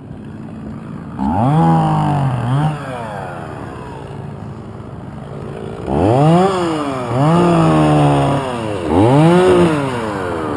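Chainsaw engine idling, then revved up four times in short bursts, each rising and falling in pitch.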